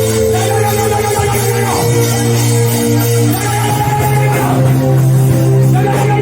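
Worship band music: sustained chords over a steady bass, with three long held melody notes that each bend off at the end.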